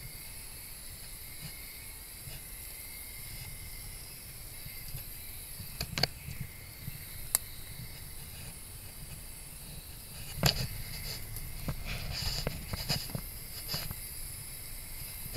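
Faint steady hiss with scattered clicks and light knocks, more of them in the last few seconds.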